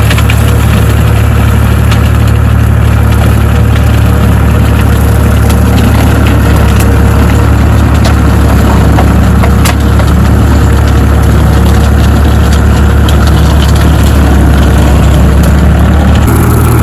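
Tractor engine running steadily while its rear-mounted topper mows brambles and ivy, a constant low drone with scattered snapping and crackling of stems being cut.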